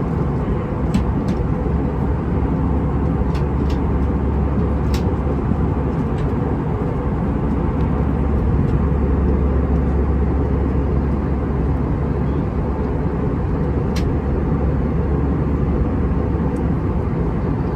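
Steady cabin noise of an Airbus A320 in flight: a constant low rumble of airflow and engines heard from inside the cabin, with a few faint clicks.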